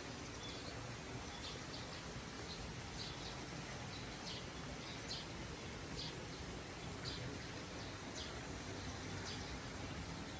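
Birds giving scattered short, high chirps every second or so over a steady outdoor background hiss.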